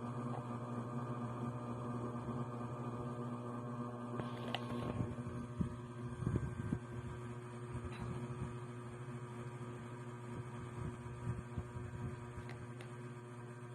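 Steady electrical hum with a few faint, soft low thuds and light clicks.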